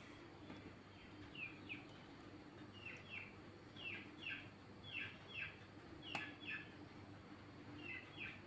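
A bird chirping faintly and repeatedly in short pairs of falling notes, about one pair a second. There is a single sharp click about six seconds in.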